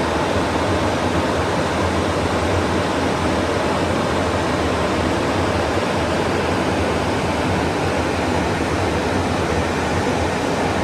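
Steady rushing airflow noise inside an airliner's cockpit in flight, with a low steady hum beneath it.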